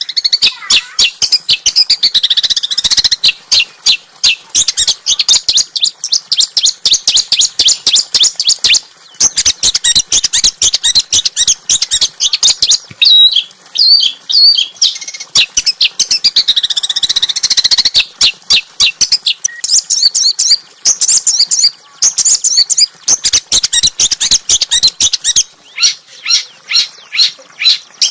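Small songbird singing a fast, harsh song of sharp chips and short trills, packed densely with only brief pauses.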